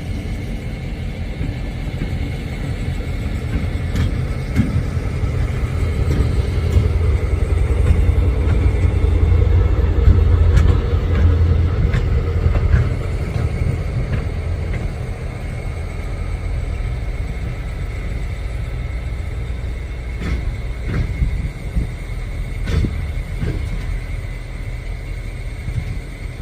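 Diesel switching locomotive's engine running with a deep, steady rumble that swells for several seconds near the middle and then eases off, with a few sharp knocks in the later part.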